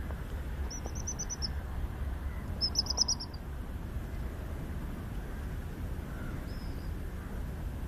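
Two short, high-pitched trills of rapid whistled notes about two seconds apart, with a faint third one later, over a low steady rumble; the uploader takes them for hedgehogs whistling to one another.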